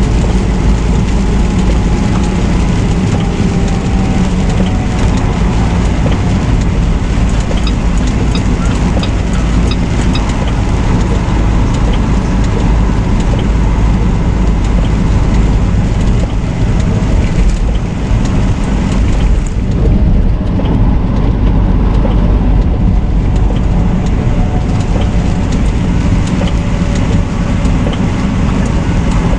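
Semi-truck engine and road noise heard from inside the cab while driving: a steady, loud low rumble.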